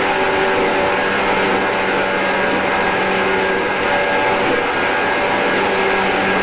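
Running sound of a JR East 113 series electric train at steady speed: steady motor and gear hum with several constant tones over rumbling rail noise, heard from inside the car.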